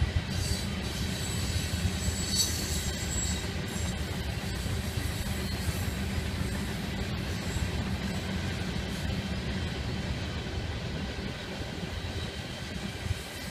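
Covered hopper cars of a freight train rolling past at steady speed: a continuous rumble of steel wheels on rail. About two seconds in, a brief high-pitched wheel squeal rises over it.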